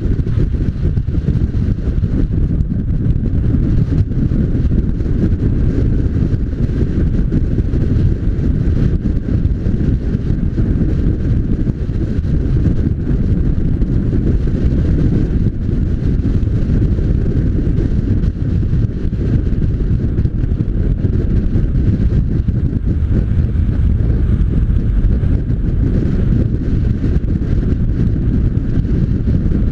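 Steady wind rushing over the microphone of a moving motorcycle, a dense low rumble with the vehicle's running noise beneath it.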